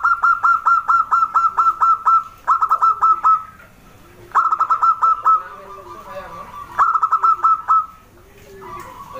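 Zebra dove (perkutut) calling: four bursts of rapid repeated notes, each note dropping quickly in pitch, with fainter low coos between the bursts.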